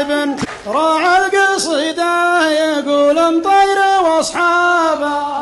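A man singing an Arabic Nabati poem as a sheilah chant, long held notes that slide up and down between pitches with no instruments standing out.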